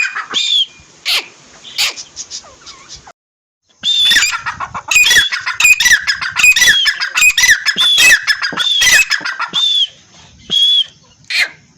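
A pair of teetar (francolins) calling, loud repeated harsh calls overlapping each other. The calls break off briefly about three seconds in, come in a fast run until about ten seconds, then a few more follow near the end.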